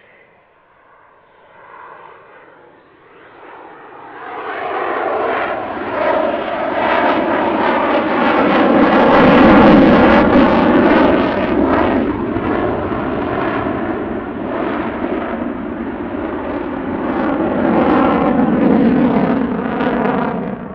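Twin EJ200 jet engines of an RAF Eurofighter Typhoon, faint at first, then building sharply about four seconds in to a loud jet roar that is loudest around the middle and stays loud with rises and falls as the jet passes.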